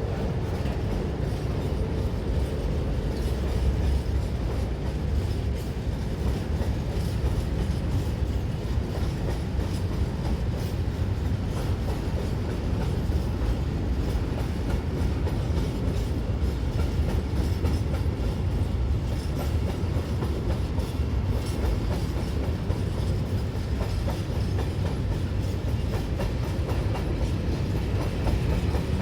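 Train running along the track: a steady, even noise of wheels on rails that keeps its level throughout.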